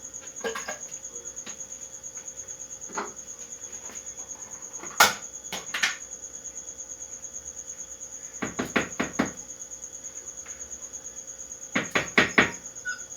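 Eggs knocked against a hard edge and cracked: single sharp knocks, then two quick clusters of three or four taps about eight and twelve seconds in. A steady high chirring like a cricket carries on underneath.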